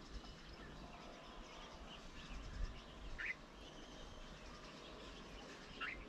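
Faint outdoor ambience with birds calling: short calls about three seconds in and again near the end, with fainter chirps over a low rumble.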